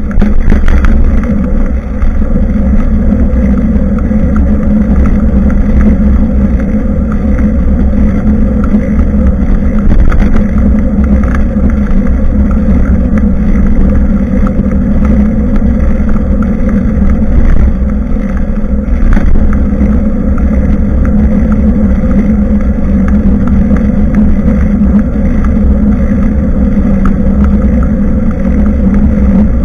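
Steady, loud rumble of wind and road vibration picked up by a bicycle-mounted action camera while riding, with small scattered knocks from the bike going over the road.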